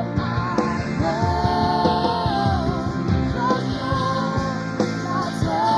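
Worship band music with drums and guitar, and a voice holding long sung notes without clear words.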